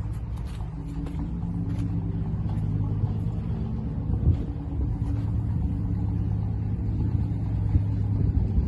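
A large vehicle engine running at a steady speed, a low even hum.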